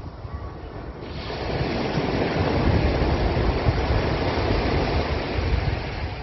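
Sea surf washing against a rocky shore: a wave's rush swells about a second in and slowly ebbs, with wind rumbling on the microphone.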